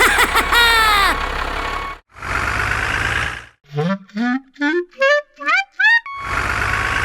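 Cartoon-style sound effects: a cluster of falling whistle tones, then a steady motor hum, a quick run of short rising notes, and the motor hum again near the end.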